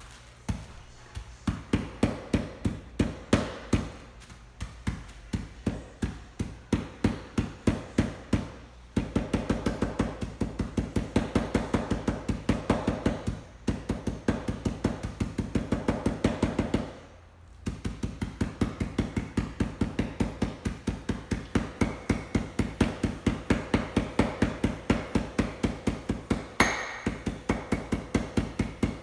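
Steady, rapid pounding, about three blows a second, in long runs broken by short pauses: food being smashed by hand during cooking prep.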